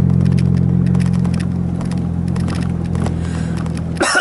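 A vehicle engine running steadily with a low hum and small scattered clicks and rattles. The hum cuts off abruptly near the end, followed by a short, loud vocal sound.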